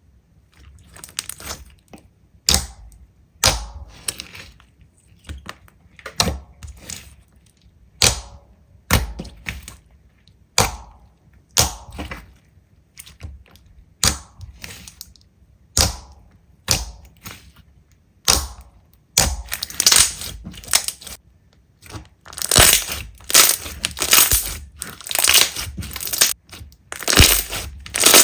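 Slime being squeezed and pressed by hand, crackling and crunching in separate squishes about once a second; in the last third the crackling gets denser and louder.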